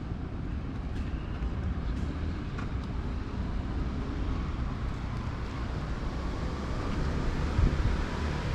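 Outdoor street ambience: a steady low rumble of wind on the microphone mixed with distant traffic.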